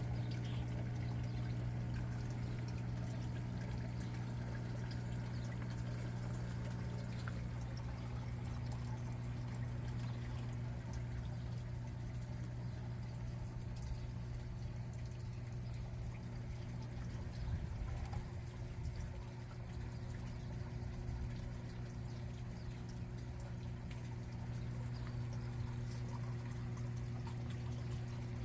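Water pouring and trickling steadily over a steady low hum.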